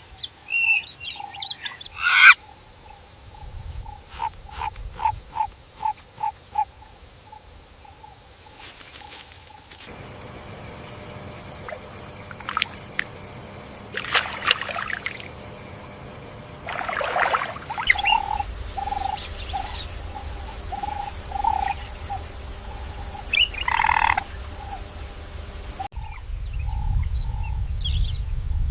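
Wild nature soundscape of frogs calling in short repeated notes, over steady high insect drones and scattered bird chirps. The mix changes abruptly every eight seconds or so.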